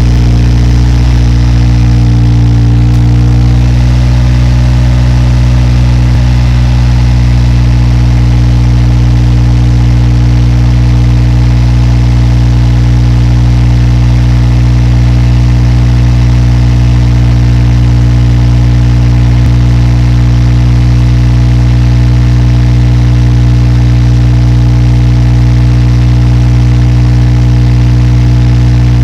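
Subaru WRX S4's turbocharged flat-four idling through an STI Performance muffler exhaust, with a deep, steady note. The idle shifts slightly in the first few seconds, then holds steady.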